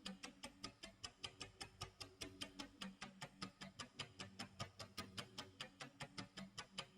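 Tick-tock clock sound effect: a faint, steady, quick run of ticks, about five a second, over a low hum.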